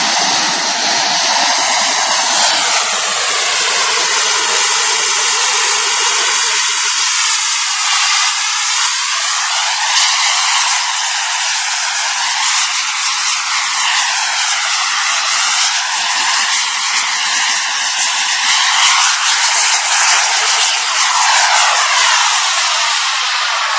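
Fighter jet's engines heard as a loud, steady rushing hiss with a sweeping, phasing shimmer that rises and falls over and over as the aircraft moves.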